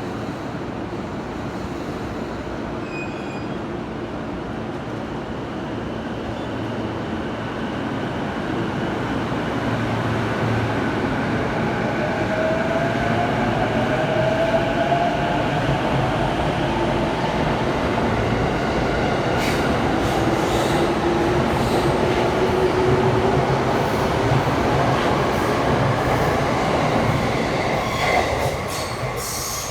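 A JR Saikyo Line electric train running at speed, heard from inside the carriage: a steady rumble of wheels on rail that grows louder about eight seconds in, with faint rising whines midway and a run of clicks near the end before the noise eases.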